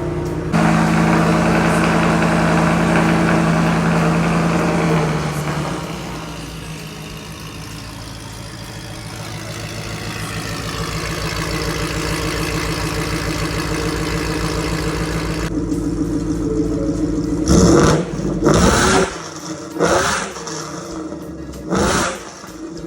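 Ford F-150's 5.0 Coyote V8 with long-tube headers and a Corsa exhaust, running at a fast idle that drops about five seconds in and settles into a lower idle. Near the end it is revved four times in quick blips.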